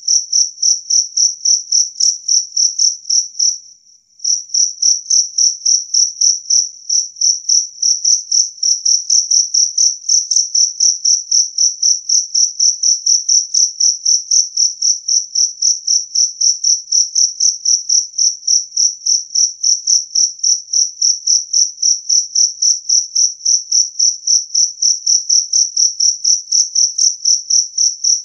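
Jangkrik kalung (two-spotted field cricket) chirping clearly and loudly, about three chirps a second in an even rhythm, with a brief break about four seconds in.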